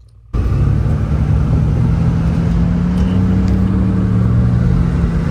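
GMC Syclone's turbocharged 4.3-litre V6 running steadily while the truck is driven, a low engine drone over road noise that starts suddenly about a third of a second in.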